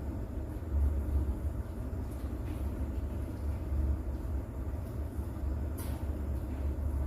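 Steady low rumble of distant thunder under rain, with a faint wash of rainfall noise and one short high tick near the end.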